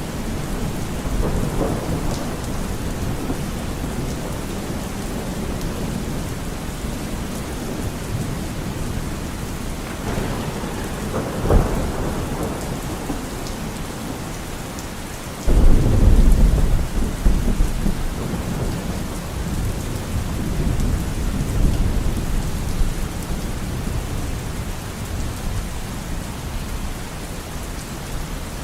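Steady rain falling in a forest, with rolling thunder. There is a sharp crack a little before halfway, then a loud thunderclap just after halfway that rumbles away over several seconds.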